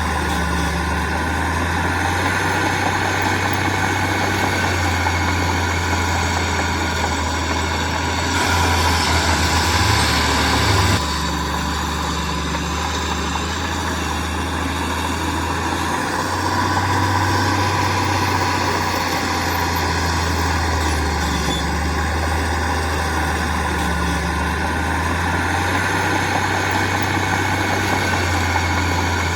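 Diesel engine of heavy earthmoving machinery running steadily with a low rumble. About eight seconds in it grows louder and harsher for some three seconds, then drops back suddenly to the steadier running.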